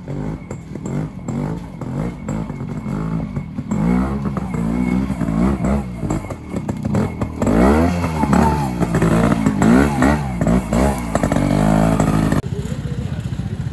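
Trials motorcycle engine repeatedly revved up and down under the throttle as it rides through a section, getting louder towards the middle. Near the end it cuts abruptly to a quieter, steadier engine sound.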